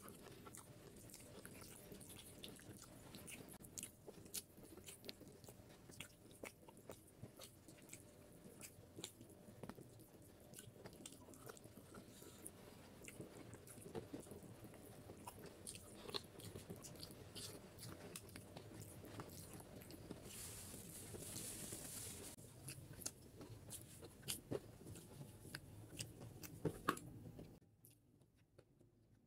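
Close-miked chewing and biting of beef head curry, with wet mouth clicks and occasional crunches. It falls much quieter a couple of seconds before the end.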